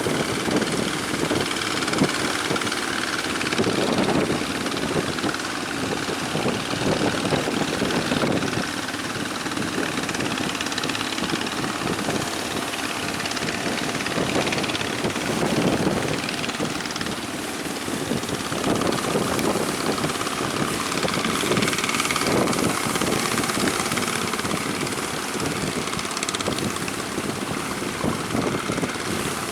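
Strong wind rushing over the microphone on a fishing boat heading out through rough sea, over the steady running of the boat's engine and the wash of the waves. The noise swells in gusts every few seconds.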